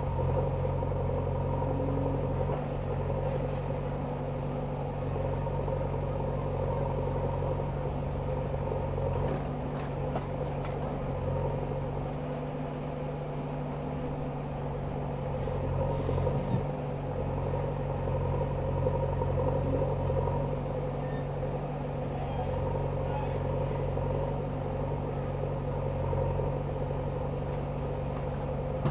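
Diesel engine of a JCB 3DX backhoe loader running steadily under work, with slight swells in level as the machine loads mud.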